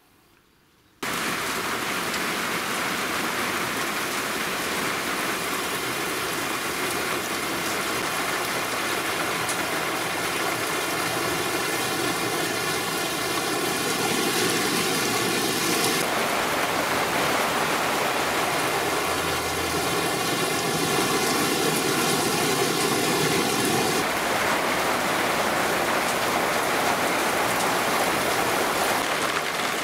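Heavy cloudburst rain pouring down, a steady hiss that starts abruptly about a second in. It falls on a corrugated roof and on a waterlogged lawn.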